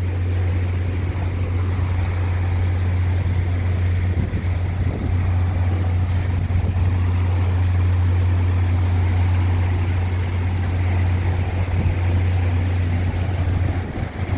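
Gusty hurricane wind buffeting the microphone: a steady, heavy low rumble with a rushing hiss above it.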